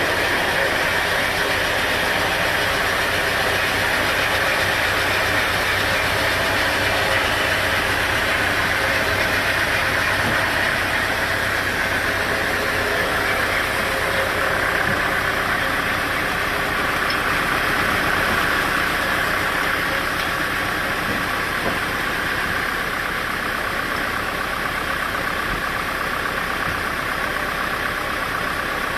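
Engine-driven sawmill machinery running steadily: a dense, even mechanical noise with no pauses.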